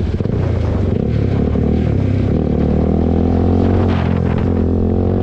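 KTM RC 390's single-cylinder engine through an SC Project aftermarket exhaust, pulling under acceleration with revs climbing steadily. About four seconds in there is a brief dip as it shifts up a gear, then the revs climb again.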